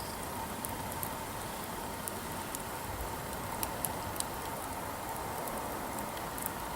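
Firewood campfire burning, a steady hiss with irregular small crackles and pops.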